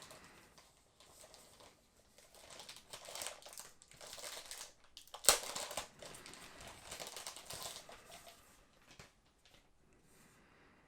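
Packaging of a boxed model airplane being handled and unwrapped: irregular crinkling and rustling, with one sharp click about five seconds in.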